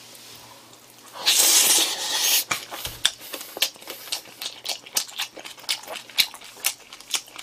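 Close-miked mouth noises of a person eating a pork and kimchi wrap. About a second in there is a loud wet smacking noise that lasts about a second. After it comes a long run of short, sharp chewing clicks, several a second.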